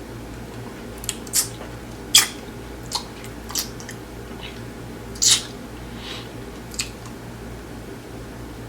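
Close-up crunching and chewing of a hard-shell taco: about nine sharp crunches over the first seven seconds, the loudest about two seconds in and about five seconds in, over a steady low hum.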